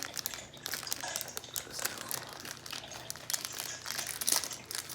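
Plastic wrapper of an individually wrapped white chocolate cookie crinkling as it is handled, in irregular crackles that are loudest about four seconds in.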